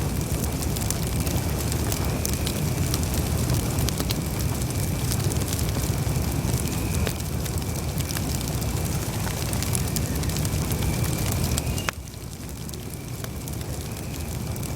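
Campfire burning, with frequent sharp crackles and pops over a low rumble, and a faint thin high whistle that comes and goes. The overall level drops suddenly about twelve seconds in.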